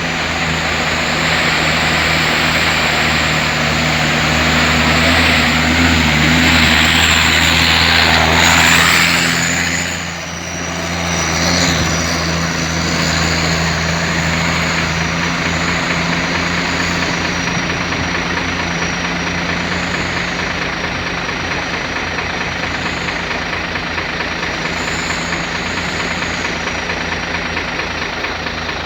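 Heavy diesel truck engine running steadily. A loud rushing hiss swells over a few seconds and cuts off about ten seconds in, after which the engine carries on more evenly.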